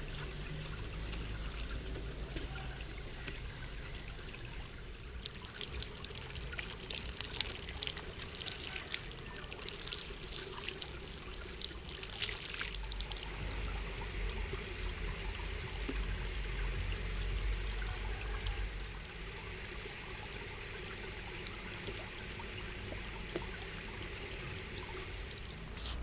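Water trickling and pouring, with a louder, splashier stretch in the first half that eases back to a gentle trickle.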